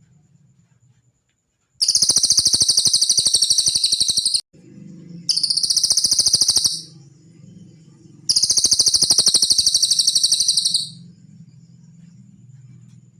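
Cililin bird singing three fast, high-pitched trills of rapidly repeated notes, each lasting about one and a half to two and a half seconds, over a faint low hum.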